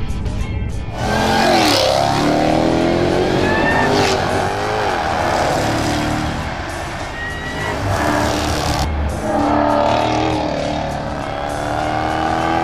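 Jaguar XE sports sedan's engine accelerating hard, its pitch climbing through the revs and dropping back at each gear change, several times over, with music underneath.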